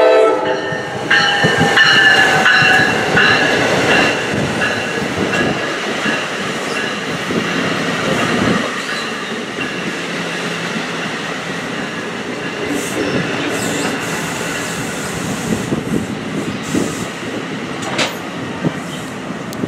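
NJ Transit multilevel passenger train rolling along the station platform, its steel wheels rumbling and clattering on the rails. High squealing comes from the train in the first few seconds, and there is a single sharp clank near the end.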